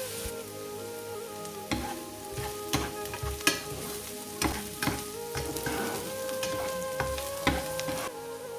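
Food sizzling in a hot pan while being stirred, with a utensil knocking against the pan several times at irregular intervals, over soft background music.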